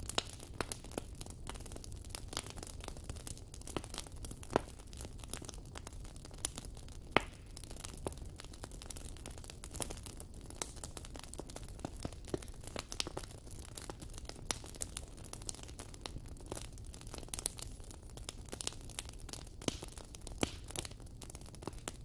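Wood fire crackling: a constant scatter of sharp pops and snaps over a low rumble of burning, with a few louder snaps, the sharpest about seven seconds in.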